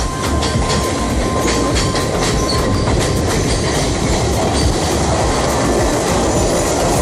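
Passenger train running on the rails: a loud, steady rumble, with wheel clicks over the first few seconds and a faint thin squeal at the same time.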